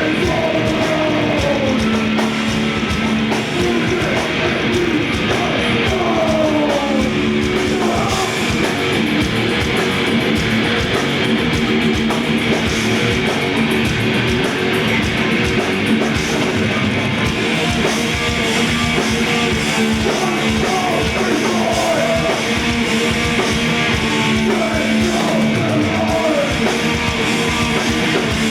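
Heavy metal band playing live, with loud distorted electric guitars and drums and shouted vocals over them.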